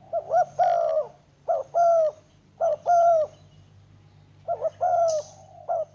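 Spotted dove cooing: about five phrases in quick succession, each a short coo followed by a longer one that drops in pitch at its end, over a faint steady hum.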